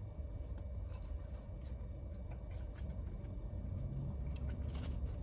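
Low steady hum of a car idling, heard from inside the cabin, with a few faint scattered clicks and taps.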